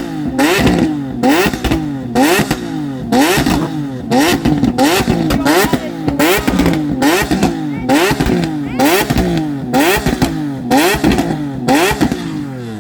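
A high-performance sports car engine revved over and over in quick throttle blips, about one a second, each rising sharply in pitch and dropping back, with a loud crack at each blip.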